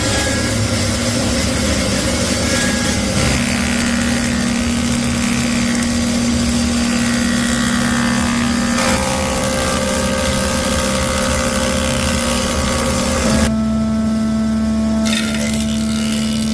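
Electric power tool running steadily: a motor hum under a dense hiss. The sound changes abruptly a few times as the tool's pitch and load shift.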